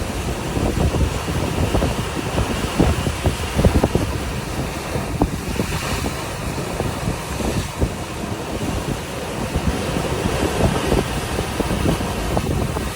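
Ocean waves crashing and washing on the shore in a continuous roar, with wind buffeting the microphone in irregular low thumps.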